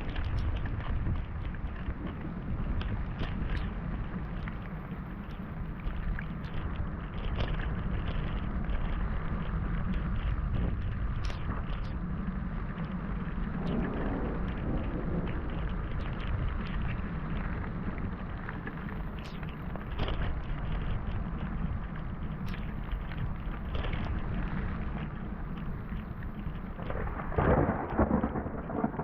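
Heavy rain falling, with many close drops ticking and a low thunder rumble underneath; the sound swells louder near the end.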